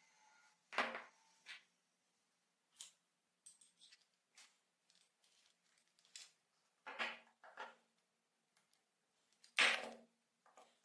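Irregular sharp clicks and knocks of tools and metal parts being handled in a workshop. The loudest comes about a second in and another near the end, with smaller ticks between.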